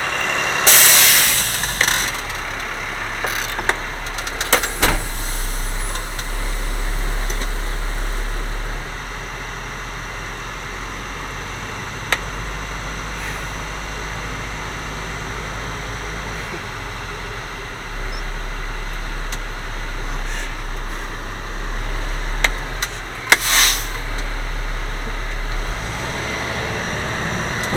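Grapple garbage truck's engine running, its low hum swelling and dropping in stretches, with scattered knocks and two short hisses, one about a second in and one near the end.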